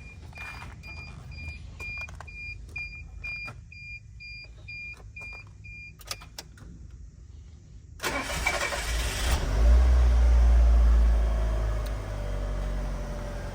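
A dashboard warning chime beeps about twice a second for some six seconds. About eight seconds in, the starter cranks the Mazda Bongo's engine from cold and it catches, running loud at a raised idle before easing to a steadier idle near the end.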